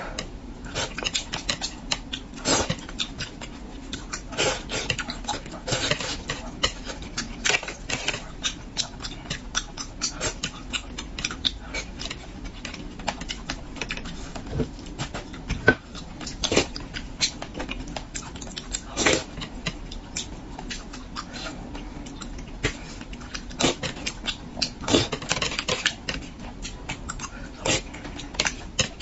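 Close-miked eating of spicy braised carp: irregular wet chewing and lip-smacking clicks, several a second.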